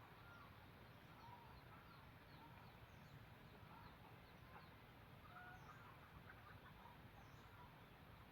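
Faint, short bird calls scattered through a quiet outdoor background, with soft high ticks; no loud crow.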